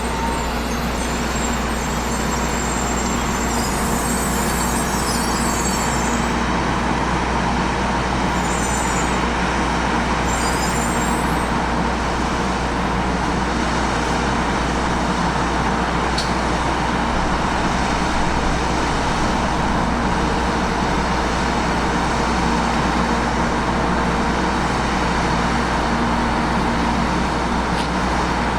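Steady vehicle noise: a continuous even rumble and hiss that holds at one level throughout.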